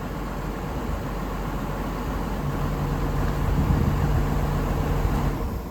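JCB 245 HD LR excavator's diesel engine running steadily, with a steady low drone joining about halfway through as the loudness rises slightly.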